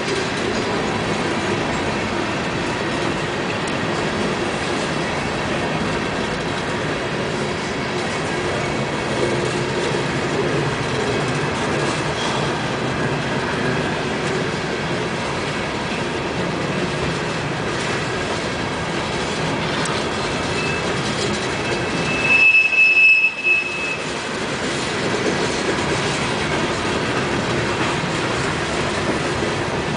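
Coal hopper cars of a freight train rolling past, a steady noise of steel wheels running on the rails. A little over two-thirds of the way through, a brief high wheel squeal rings out.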